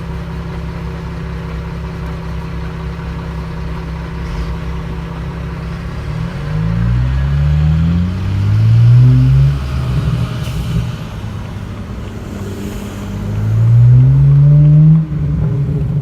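BMW 335i turbocharged inline-six with a muffler delete idling, then revving up twice, each rise in pitch falling back sharply. The second cuts off suddenly.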